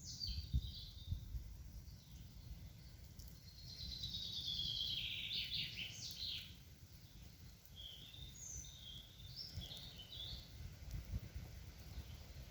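Wild songbirds singing: a loud descending trill of fast repeated notes in the middle, with shorter high phrases before and after. A low background rumble runs underneath.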